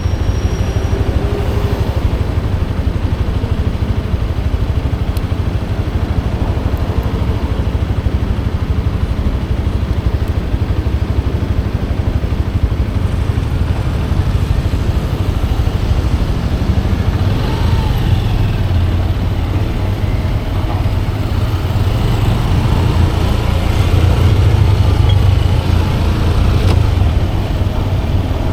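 Motorcycle on the move: a steady, loud low rumble of engine and road noise, growing a little louder near the end.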